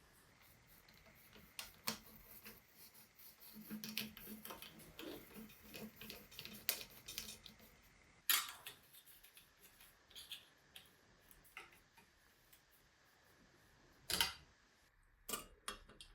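Irregular small metallic clicks and taps from bicycle parts and hand tools being handled during assembly. The loudest knocks come about 8 s and 14 s in, and a faint low hum runs through the middle.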